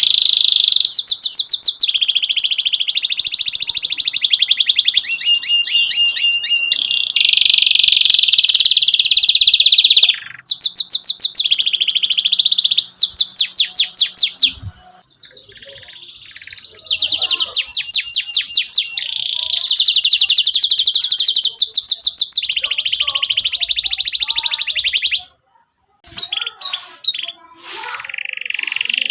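Domestic canary singing: long phrases of fast trills, rapid runs of repeated high notes, with chirps between them. The song breaks off briefly a few times.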